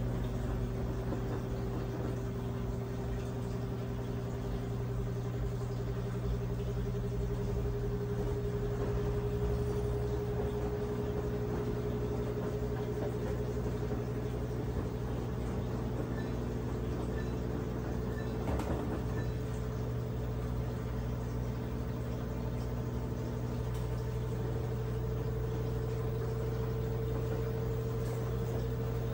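Brastemp 17 kg washing machine running: a steady low hum with a whine that slowly rises in pitch as the motor gathers speed.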